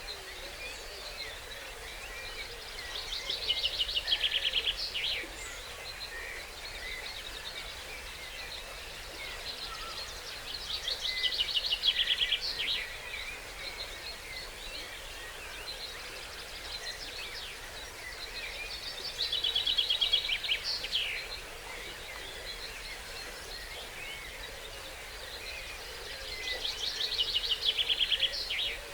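Dawn chorus: one nearby songbird sings the same short trilled phrase four times, about eight seconds apart, each run of quick repeated notes lasting about two seconds. Fainter birdsong and a steady stream hiss sit beneath it.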